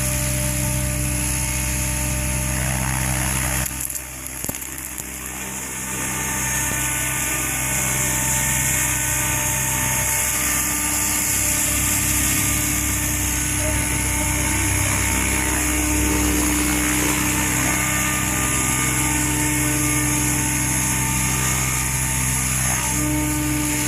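Goblin 700 electric radio-controlled helicopter in flight: a steady high whine of its motor and rotor blades. The sound drops off briefly about four seconds in, then builds back up and holds steady.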